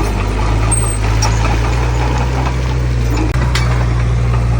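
Heavy diesel engine of earthmoving machinery running steadily, with scattered metallic clicks and clanks. The sound cuts out for an instant about three seconds in.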